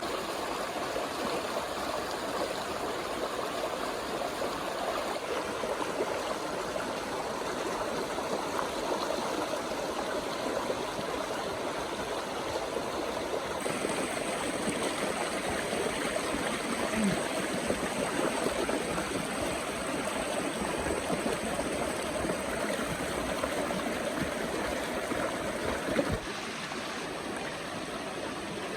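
Steady rush of flowing river water, its character shifting slightly a few times.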